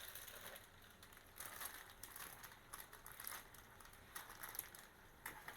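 Faint, irregular crackling sizzle of chicken curry cooking in a pan on the stove.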